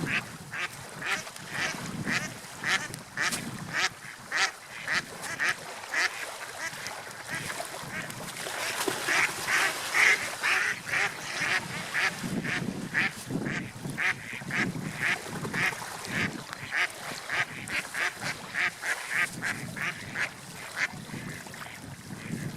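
Gulls calling over and over in short calls, about two a second, loudest near the middle, over a steady wash of wind and surf.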